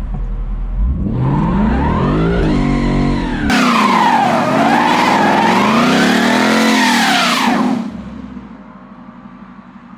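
Ford Mustang GT's V8 revving up and down during a line-lock burnout. The rear tyres spin and squeal against the locked front brakes for about four seconds, then the revs drop sharply near the end.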